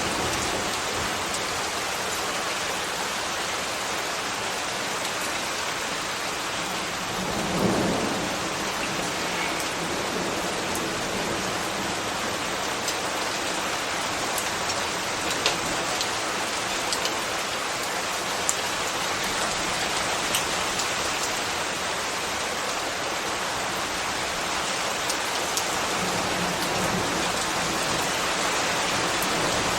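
Steady rain falling, with a few sharp drip clicks and a brief low swell about eight seconds in.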